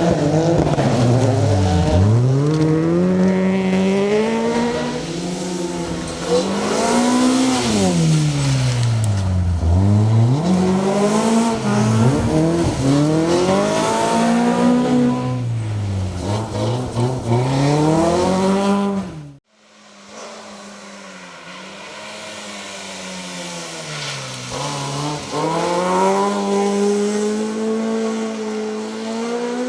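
Mk2 Ford Escort rally car's 2.0-litre Toyota Beams four-cylinder engine, revved hard, its pitch repeatedly dropping sharply and climbing again as the car brakes, changes gear and accelerates. After a sudden cut about two-thirds of the way through, the engine is heard more faintly, pitch rising again near the end.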